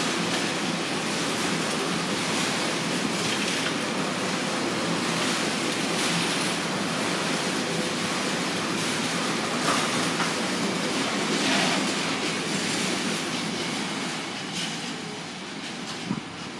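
Freight wagons loaded with rail rolling past at speed: a steady rumble and rattle of wheels on track with occasional sharp clicks, easing off near the end as the last wagon goes by.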